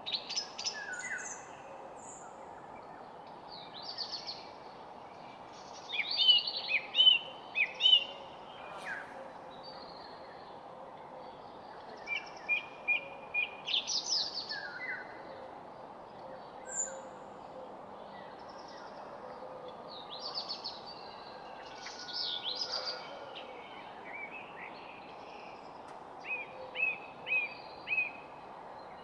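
Wild birds singing and calling in short chirps and quick trilled phrases, several voices coming and going throughout, over a steady low background hiss.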